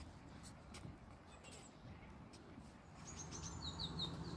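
Quiet outdoor ambience with a bird singing: a quick run of high, falling chirps about three seconds in, over a low steady background rumble.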